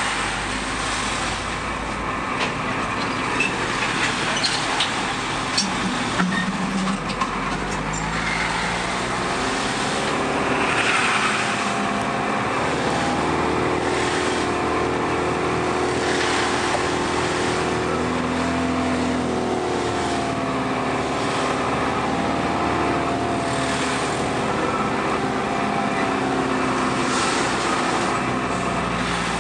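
Motor vehicle on the road: steady engine and road noise, with the engine note gently rising and falling from about ten seconds in.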